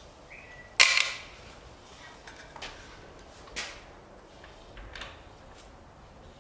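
A sharp, loud clank a little under a second in, followed right after by a second hit, then a few lighter clicks and knocks of tools or parts being handled.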